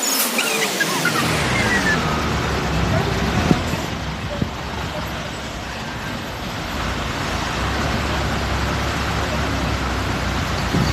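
Motor vehicle on the road: a steady rumble and road noise come in about a second in, after a few falling tones.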